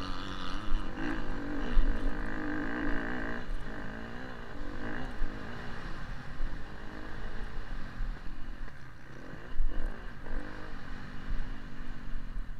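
Motocross bike engine heard from a camera mounted on the bike, revving up and down through the gears while racing over a dirt track. Low thumps of wind and jolts on the microphone run under it.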